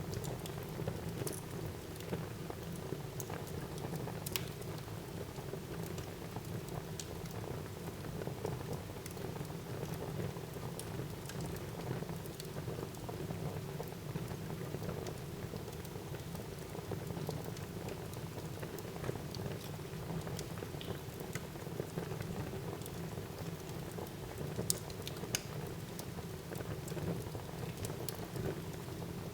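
Wood fire burning in a fireplace: a steady low rush of flames with scattered crackles and pops, several sharp pops close together near the end.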